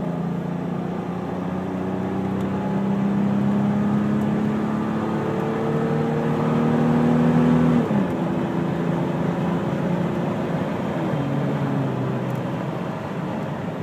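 A 1994 Toyota Land Cruiser's 4.5-litre inline-six with a Magnaflow exhaust pulls at wide-open throttle, heard from inside the cabin with the windows up. The engine note climbs steadily and drops sharply at an upshift about eight seconds in. It climbs again and drops at a second shift about three seconds later, over road noise.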